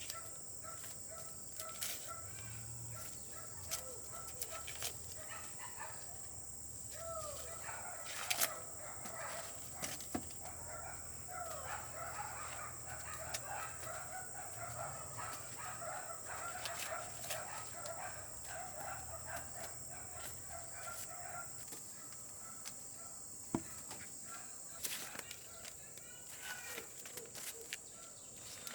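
Chickens clucking and calling in a dense run of short calls, busiest through the middle and thinning out later, over a steady high-pitched buzz and occasional knocks.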